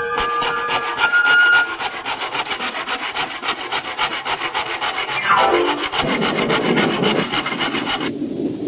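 Cartoon sound effects: a sharp click, then rapid rasping strokes at about eight a second, like something filing or sawing on wood. About five seconds in, a whistle falls steeply in pitch, and the sound turns rougher and lower.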